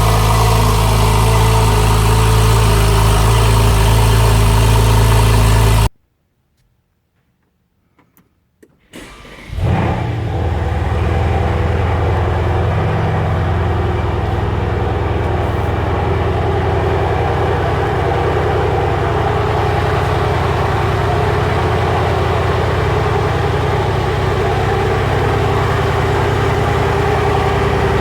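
A sports car's engine running steadily, then cut off abruptly about six seconds in. After a few seconds of near silence with a couple of faint clicks, an engine cold-starts, flares briefly in revs and settles into a steady idle.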